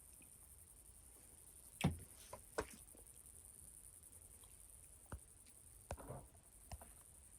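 A handful of faint, sharp clicks and short crunches, the loudest about two seconds in, over a steady high hiss.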